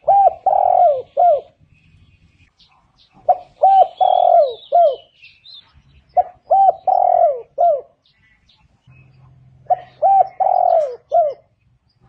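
Spotted dove cooing: four repeated phrases about three seconds apart, each a few short coos around one longer note, the last coo falling in pitch. Faint high chirps of a small bird come about four seconds in.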